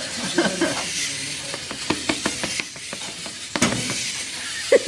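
Irregular clicking and clattering from a noise-activated toy robot's geared mechanism, with a loud thump about three and a half seconds in.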